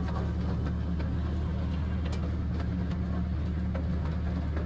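Miniature zoo train running along at a steady pace: a low, even engine drone with a few light clicks and rattles.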